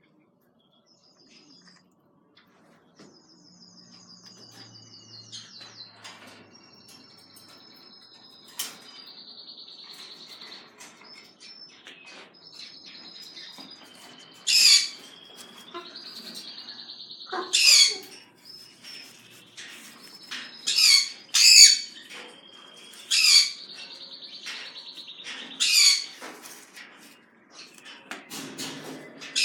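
Pet birds chirping with long, rattling high trills. From about halfway in, loud sharp squawks come roughly every three seconds.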